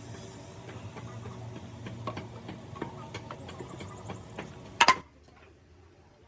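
Workshop noise: a steady low hum with scattered light taps and clicks, then two sharp, loud knocks just before five seconds in. After the knocks the hum cuts off abruptly, leaving a faint background.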